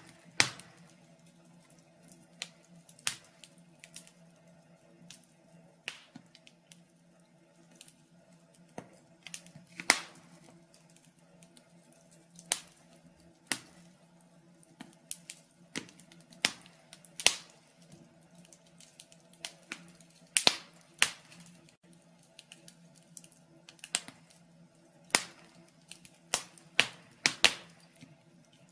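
Fire crackling in a fireplace, with sharp irregular pops coming every second or so, over a faint steady hum.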